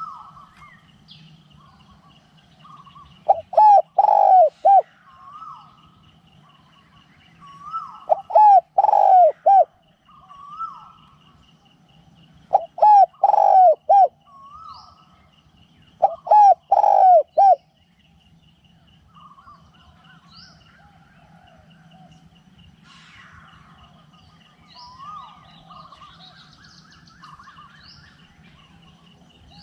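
Spotted dove cooing loudly: four multi-note phrases about four seconds apart, then it falls silent for the last third. Other small birds chirp faintly in the background over a steady high insect-like tone.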